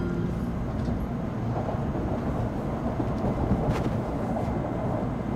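Steady low rumble inside an N700 series Shinkansen car, with a single sharp click about three and a half seconds in.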